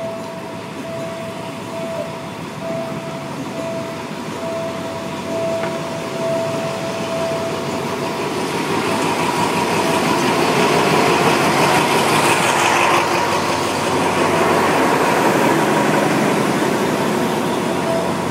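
Diesel locomotive hauling a passenger train, approaching and passing close by. Its engine and wheel noise swells from about eight seconds in and stays loud as the coaches roll past. Over the first eight seconds a single-pitched tone pulses on and off, then stops.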